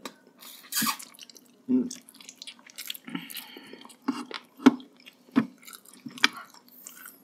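Close-miked wet chewing and lip-smacking of people eating braised pork leg by hand, a string of short, irregular wet clicks and smacks.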